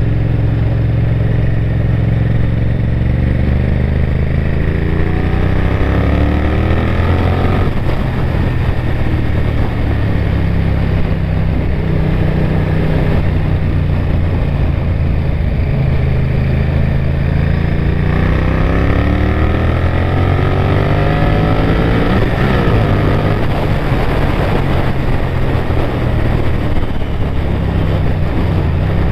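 Honda VTR1000F Firestorm's 90-degree V-twin engine pulling hard under acceleration. Its pitch climbs for a few seconds and drops at a gear change, runs steadier for a stretch, then climbs and drops again about two-thirds of the way in.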